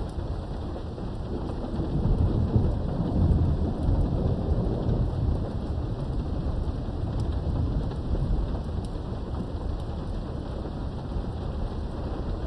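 Steady rain with a low rumble of thunder that swells about two seconds in and fades away over the next few seconds, heard from indoors behind a window.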